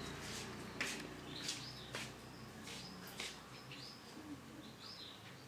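Female yellow canary calling with short sharp chirps and a few brief curved call notes, spaced irregularly.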